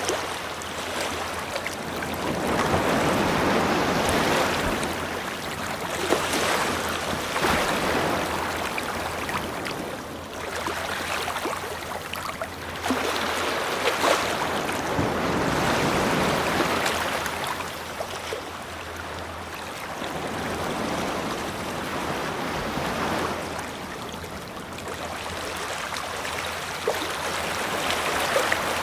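Ocean surf washing onto a beach, the rush of water swelling and easing every few seconds.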